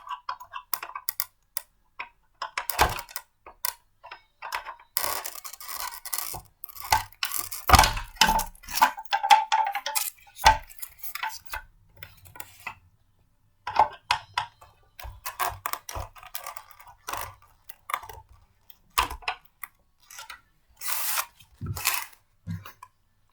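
Blender parts being handled and fitted together: irregular clicks, knocks and short clattering rattles, with a busier stretch about five to eleven seconds in and a brief lull around thirteen seconds. The blender's motor is not running.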